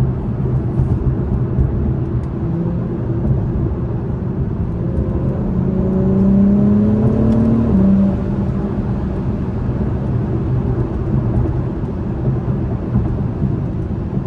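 Cabin noise of a 2021 Acura TLX Type S driving, a steady low road and engine rumble. About five seconds in, its turbocharged 3.0-litre V6 rises in pitch and gets louder as the car accelerates, then falls back just before the eight-second mark.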